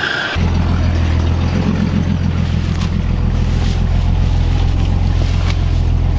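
Datsun Z car engine idling steadily, coming in loud and low less than half a second in.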